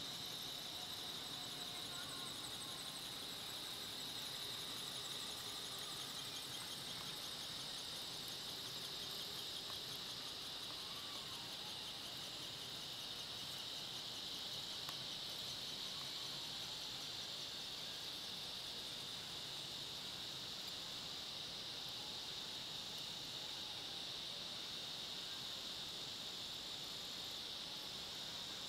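Insects chirring in a steady, high-pitched drone with a fast pulsing texture, unbroken throughout.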